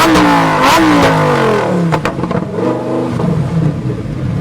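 High-performance sports car engine at full throttle: its pitch climbs sharply, then falls away in several long glides as the car drives off. A sharp crack about two seconds in.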